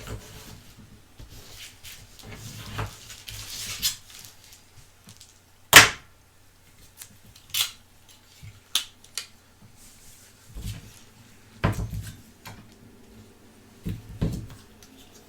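Irregular clicks, taps and knocks of small hard objects being handled, with one loud, sharp click about six seconds in and several fainter ones after it.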